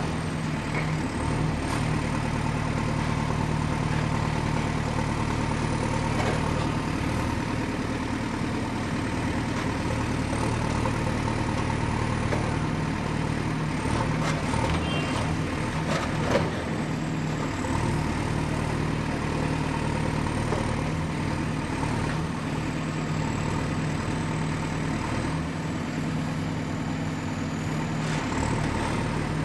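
Excavator's diesel engine running steadily, with a faint high whine that wavers slowly in pitch. A few knocks and clanks come about halfway through, one sharper than the rest.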